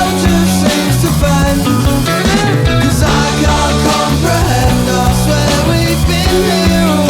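Rock music with no vocals: bass, drums and electric guitars, with a lead guitar bending notes over a steady beat.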